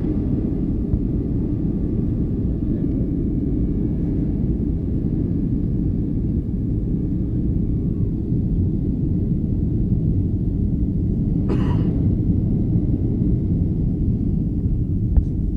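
Steady low rumble of an airliner in flight, as heard from inside the cabin, with a faint steady whine over it for the first half. A short sharp noise comes about twelve seconds in and a click near the end.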